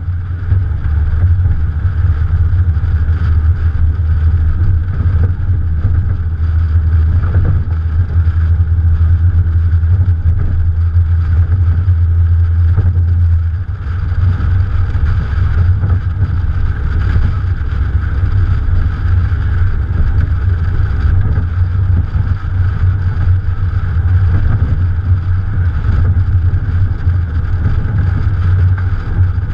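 Morgan Plus 4's Ford 2.0 litre four-cylinder engine running under way, heard from a camera on the bonnet with wind and road noise. The low engine drone drops briefly about halfway through, then picks up again.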